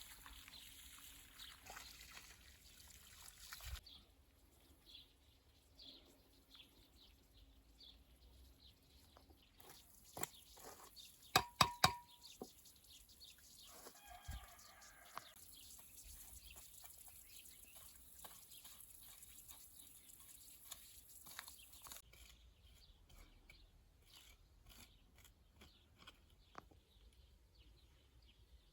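Quiet outdoor rural ambience with faint, scattered sounds, including a few sharp clicks or knocks near the middle.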